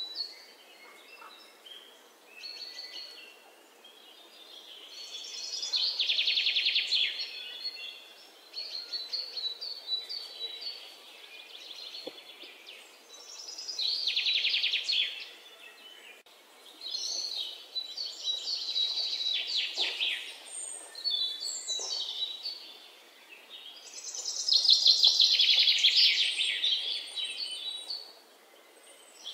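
Songbirds singing: bursts of fast, trilled, chirping song come and go several times over a faint steady hiss, the loudest about twenty-five seconds in.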